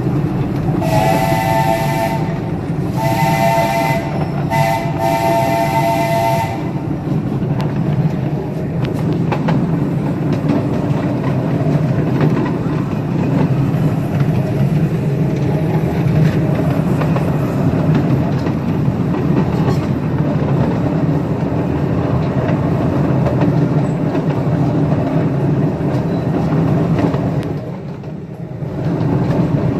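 A live steam locomotive's chime whistle sounds several blasts over the first few seconds, the last broken by a short gap, in the long-long-short-long pattern used for a grade crossing. After that the miniature train runs on with a steady rumble and wheel clatter.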